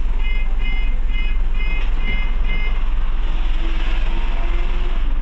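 Steady low engine drone inside a Scania OmniCity bus, with six short electronic beeps, about two a second, over the first three seconds.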